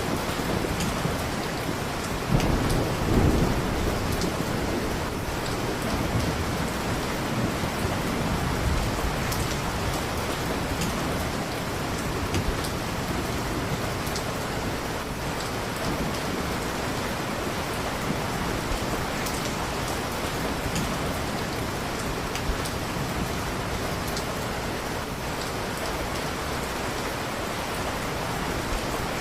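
Steady heavy rain, with a low rumble of thunder about two to four seconds in that slowly dies away.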